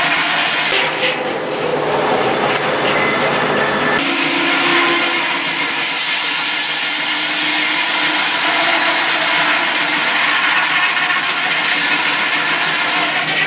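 Sawmill saw cutting through a log: a loud, steady noise that changes abruptly about four seconds in and then holds even.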